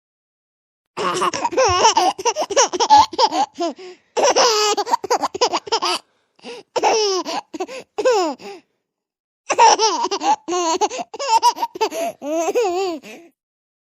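A small child laughing hard in three long fits of rapid, high-pitched giggles.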